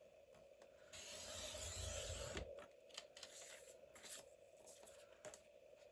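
Fiskars paper trimmer cutting a strip of scrapbook paper: one sliding cut lasting about a second and a half, starting about a second in, followed by light taps and paper handling.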